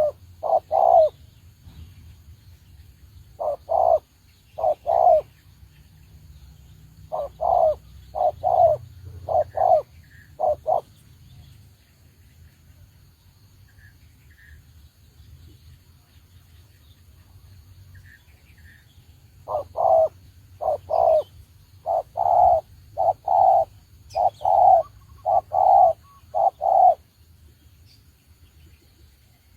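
Spotted dove cooing: short phrases of low coo notes repeated in several bouts, with a long pause in the middle and the longest run about twenty seconds in.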